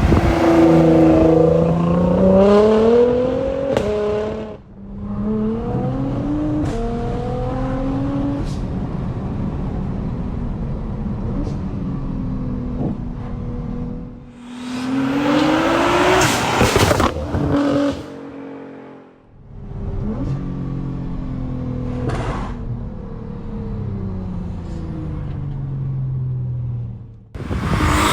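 Nissan GT-R R35's twin-turbo V6 through a loud exhaust, the revs climbing and falling over several gear changes, with brief dips in sound between pulls. It bursts loudest about halfway through and again at the very end.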